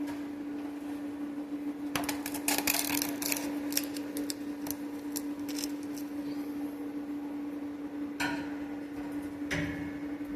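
Plasma cutter working on a truck's steel exhaust pipe: a steady hum underneath, a run of crackling clicks about two to four seconds in, and two short hissing bursts near the end.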